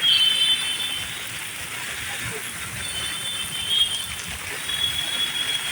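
Heavy rain falling, a steady hiss, with faint thin high tones coming and going.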